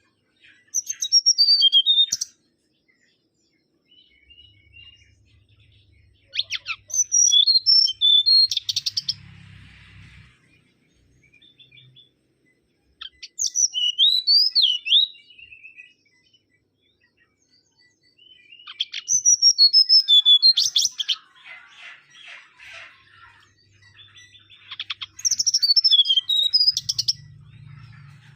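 Mangrove whistler singing: five short phrases of loud, quick whistled notes, one about every six seconds, with quiet pauses between them.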